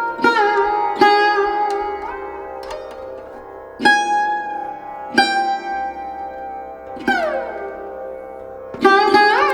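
Slow instrumental music on a plucked string instrument: single notes plucked a second or more apart, ringing over a steady drone, with some notes sliding up or down in pitch.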